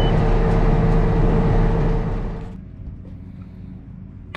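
Case IH 7120 tractor and planter running loud and steady with a constant whine, then cut back sharply about two and a half seconds in to a low idle hum. The rig is being stopped because the planter's seed population has dropped and it has quit planting.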